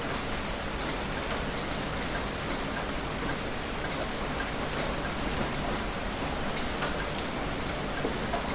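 Heavy rain falling steadily, a dense even hiss with scattered louder drop taps standing out every second or so.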